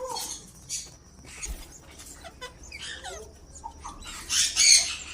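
Ringneck parrots giving short squeaky chirps, then a louder harsh squawk about four seconds in.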